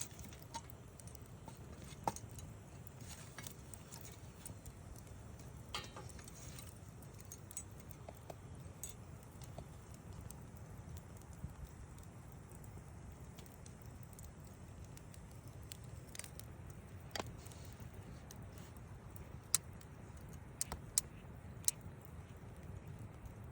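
Wood campfire burning: scattered sharp crackles and pops over a low steady rumble, with a cluster of louder pops near the end.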